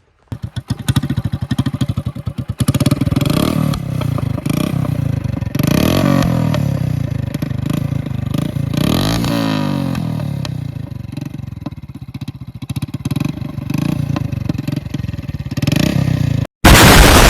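Hero Passion Plus motorcycle's single-cylinder four-stroke engine running and revved up several times, its pitch rising with each rev. Near the end a very loud burst of noise cuts in.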